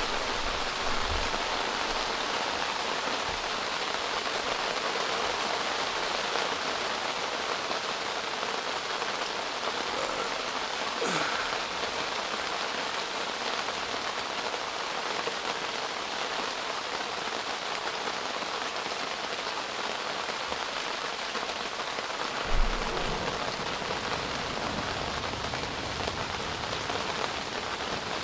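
Steady rain pattering on a tent during a thunderstorm, with one short low thump about three-quarters of the way through.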